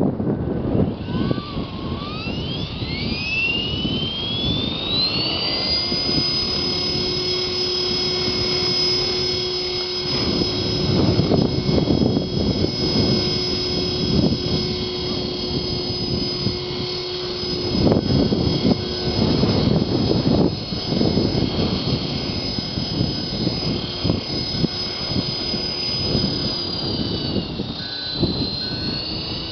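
Blade 400 electric RC helicopter's motor and rotor whining, rising in pitch as it spools up over a few seconds, then holding a steady high whine. Wind buffets the microphone in gusts. Near the end the whine dips briefly in pitch and recovers.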